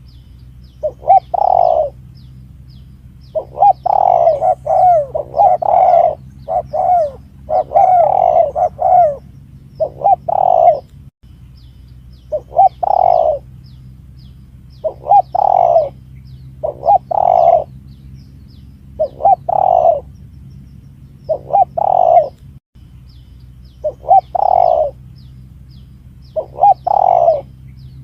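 Spotted dove (tekukur) cooing over and over in short groups of mellow coo notes, a phrase every second or two, over a steady low hum. It is a bird-lure call played to draw tekukur in.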